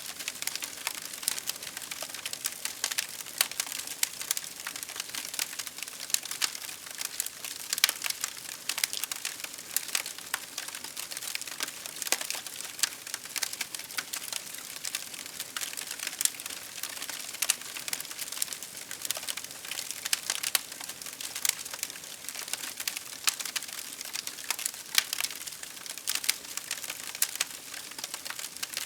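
Wood fire crackling: a steady stream of irregular sharp pops and snaps over a soft hiss of burning.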